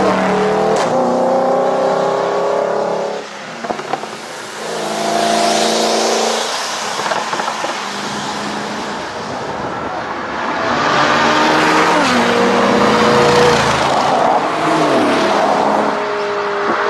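High-performance car engines on open exhaust, a straight-piped Mercedes-Benz SLS AMG V8 and a Lamborghini Gallardo V10, accelerating and lifting off with the pitch rising and falling through the gears. About three seconds in the engine note drops away and a few sharp pops follow, typical of overrun exhaust crackles. A stretch of rushing wind and road noise comes in the middle, before the engines pull hard again.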